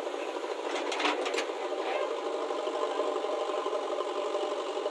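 Small engine running steadily with a mechanical chatter, with a few sharp clicks about a second in.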